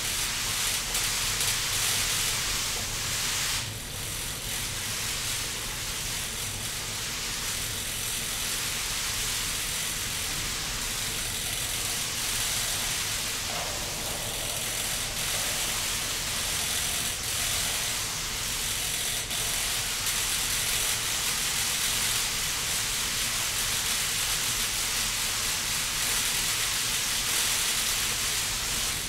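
Digital rain curtain running: many streams of water falling from the nozzle bar and splashing steadily into the basin below, a continuous hiss of splashing water that dips briefly about four seconds in.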